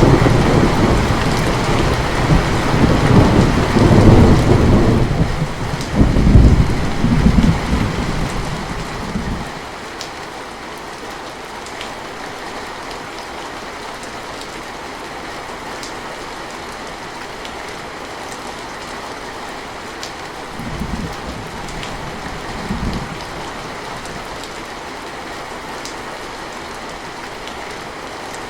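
Steady heavy rain with a long, loud roll of thunder that peaks twice and fades out about nine or ten seconds in. Two brief, fainter rumbles of thunder come later over the rain.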